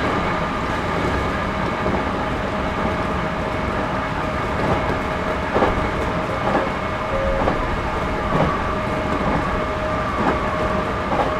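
Series 211-5000 electric train heard from inside the car while running at speed: a steady rumble of wheels on rails with a faint steady hum. Short clacks from the wheels over the track come irregularly, about once a second, in the second half.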